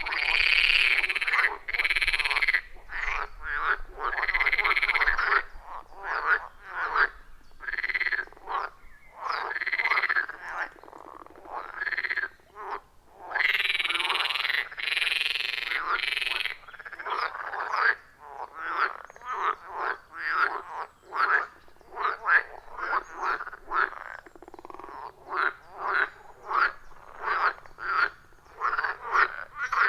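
Chorus of frogs calling at a pond, overlapping croaking calls. Longer calls come first, then from about halfway a quick run of short calls at roughly two a second.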